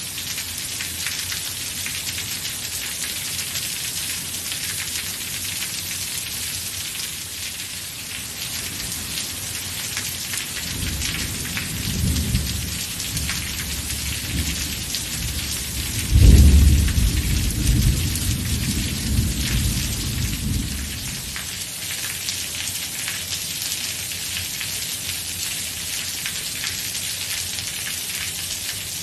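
Steady rain hissing throughout. About a third of the way in, a low thunder rumble builds. It peaks in a sudden loud clap about halfway through, then rolls away over several seconds.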